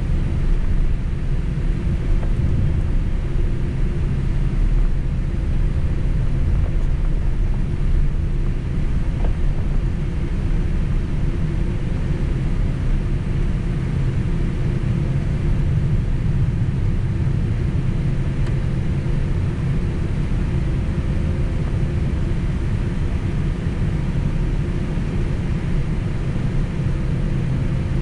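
Steady low rumble of a Boeing 767's jet engines and airflow heard inside the passenger cabin, with a faint steady hum above it.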